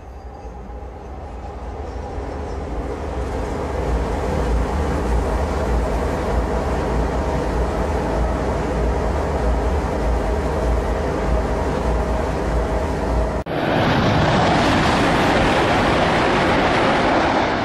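CRH380A high-speed electric trains passing. A deep rumble with a faint steady hum grows steadily louder as a train crosses a viaduct. After a sudden cut about thirteen seconds in comes a louder, brighter rushing of a train going by at speed.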